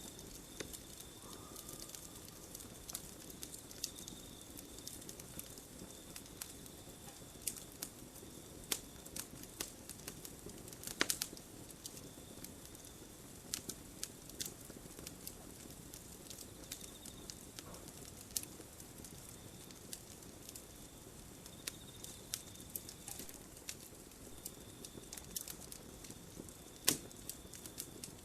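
Campfire crackling: irregular sharp pops and snaps over a soft steady hiss of burning wood, with a louder cluster of pops about eleven seconds in and again near the end. A faint, steady high-pitched tone sits underneath.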